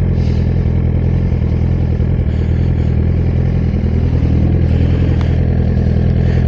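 Suzuki GSX-R1000's inline-four engine running steadily at an even, low speed with no revving.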